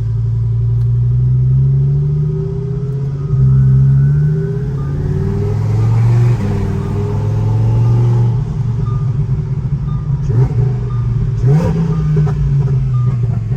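Twin-turbo Lamborghini engine pulling hard under full acceleration. The pitch climbs through each gear, with quick upshifts every two to three seconds. A few sharp cracks come in the last few seconds.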